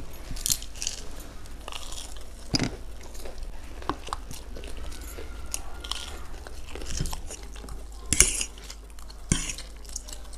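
Close eating sounds: crunchy bites and chewing of crisp fried egg cutlets, with forks and cutlery clinking on the plates. Near the end, the eating moves to chowmein noodles.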